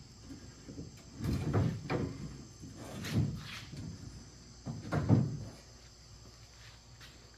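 Hinged metal conduit blind frame being handled, creaking and rattling in three short bursts, the loudest about five seconds in.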